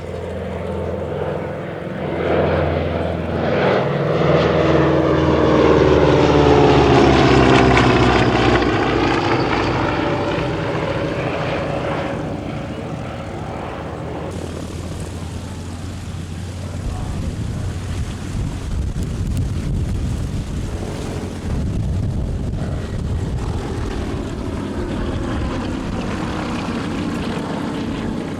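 Radial-engined propeller aircraft flying past: the engine drone builds to a peak about seven seconds in and drops in pitch as the aircraft passes. A steadier drone carries on after it.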